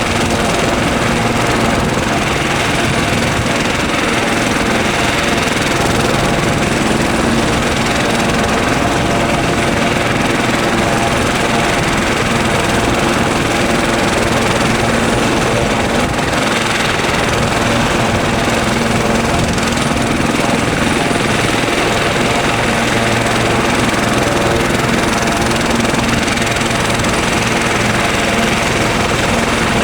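Helicopter running close by, a loud steady turbine and rotor noise with several held tones over a broad rush of noise.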